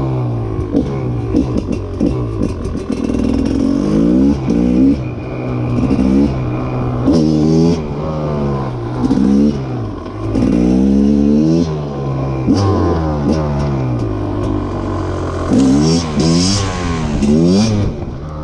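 Rieju MR300 300cc two-stroke enduro engine being ridden hard, its revs rising and falling sharply about once a second as the throttle is worked through the gears.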